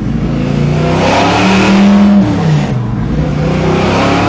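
Naturally aspirated 572 cubic-inch big-block V8 pulling under acceleration, its pitch climbing and holding, then dropping at a gear change about two and a half seconds in before climbing again.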